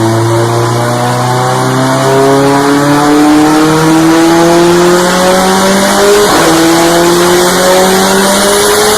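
Car engine accelerating under load, its pitch climbing steadily, with a gear change about six seconds in where the pitch drops and then climbs again.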